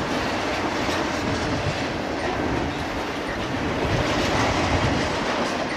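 Double-stack intermodal freight cars rolling past on the rails: a steady rumble of steel wheels on track.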